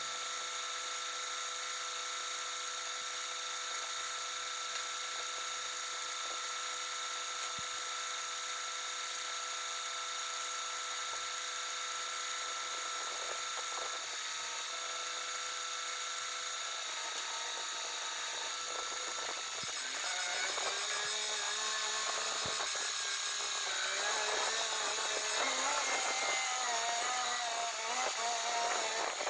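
Steady whine of a small electric motor, like a power tool running. About twenty seconds in, a louder sound with a wavering pitch joins it for several seconds.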